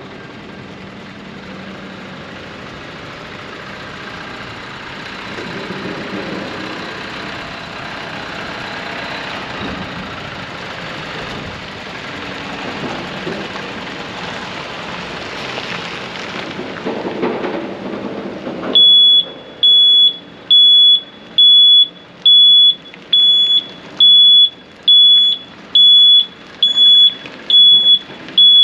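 A truck running with general vehicle noise. About two-thirds of the way through, a reverse backup alarm starts: a loud, single high-pitched beep repeating evenly about once a second.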